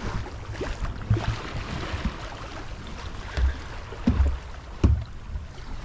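Wind buffeting the microphone and water noise aboard a small sailing yacht, with irregular low thumps and several sharp knocks, the loudest about four and five seconds in.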